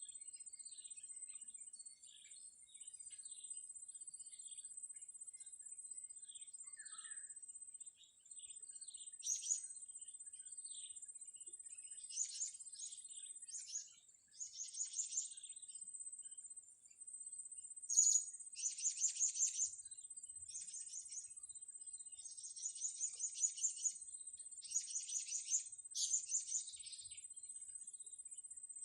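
Blue-crowned hanging parrots (serindit) chirping: thin, high, scattered chirps at first, becoming loud runs of rapid chirps from about halfway, the loudest about 18 s in. A steady high thin tone sounds underneath the whole time.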